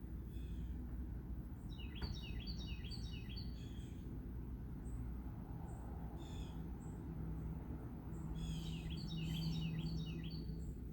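Wild birds singing: two bursts of quick repeated chirping, about two seconds in and again near the end, with single chirps between them, over a steady low hum.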